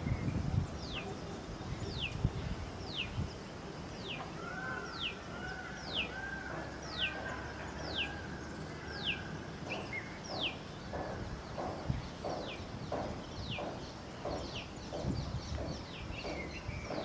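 Female koel calling: a string of shrill notes, each falling sharply in pitch, about one a second, then quickening into a faster run in the second half.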